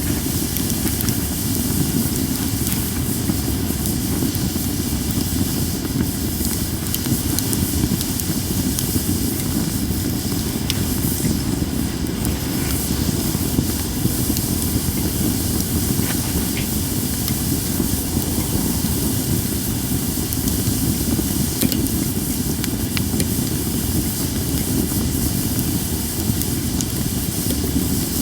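Japanese cedar (sugi) campfire burning with a steady hiss and a low rushing sound, and scattered small crackles.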